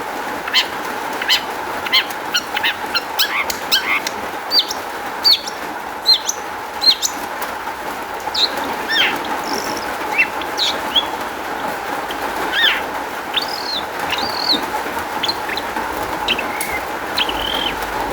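Long-tailed shrike singing a varied song of sharp, down-slurred chips and short whistles, a rapid run in the first seven seconds or so, then fewer and longer whistled notes, over a steady background hiss.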